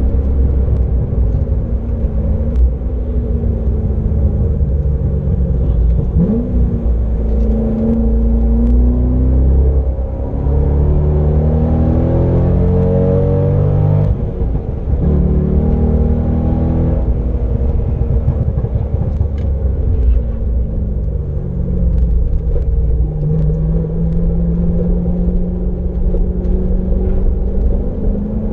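2007 Chevrolet Corvette C6's 6.0-litre LS2 V8, heard from inside the cabin at track pace. The engine note climbs in pitch under acceleration, drops sharply about fourteen seconds in, then rises slowly again through the second half, over a heavy low rumble.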